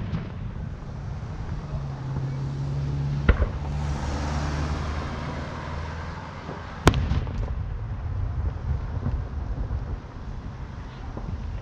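Aerial firework shells bursting overhead: a sharp boom about three seconds in and a louder one about seven seconds in, with a fizzing crackle between them. A car engine runs low in the background through the middle.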